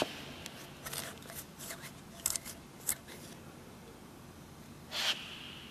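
Light clicks and rustles of parts being handled, with one short swish about five seconds in.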